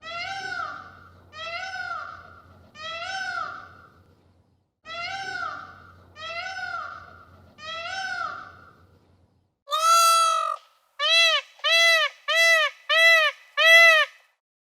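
Repeated animal calls: six clear, pitched calls of about a second each, rising then falling, in two sets of three. About ten seconds in comes one longer call, followed by five short arched calls in quick succession.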